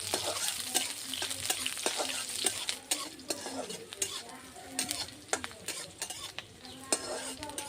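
Sliced onion and green chillies frying in a little oil with mustard seeds in a kadai, sizzling steadily, while a spoon stirs and scrapes against the pan with many short clicks.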